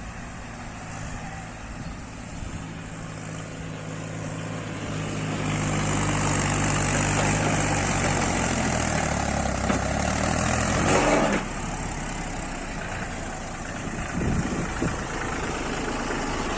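Mahindra tractor's diesel engine running, growing louder over several seconds. Its pitch drops about ten seconds in, and then it goes suddenly quieter.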